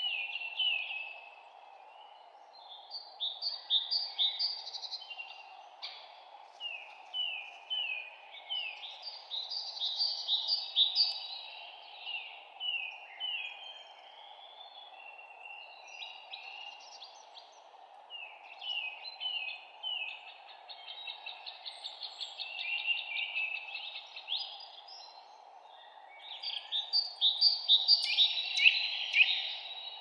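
Several songbirds chirping and singing, in repeated phrases of quick, mostly falling notes, busiest and loudest near the end. A steady low hiss runs underneath.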